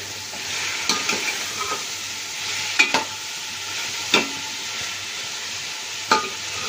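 Meat, tomatoes and spices sizzling as they fry in oil in a large aluminium pot, stirred with a slotted steel ladle. The ladle clinks sharply against the pot about four times.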